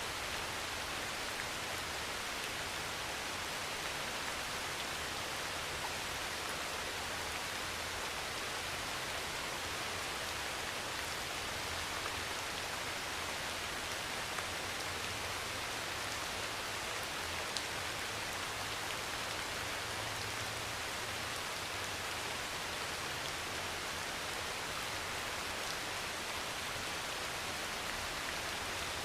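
Heavy rain pouring steadily on a metal roof, with a few sharper drop ticks here and there.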